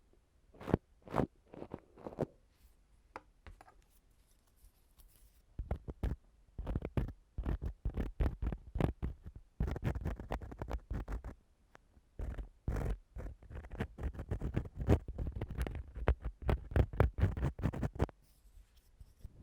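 Ear-cleaning tools scratching and rubbing against an ASMR microphone in quick short strokes: only a few scattered strokes over the first few seconds, then dense runs of scraping from about five seconds in until near the end.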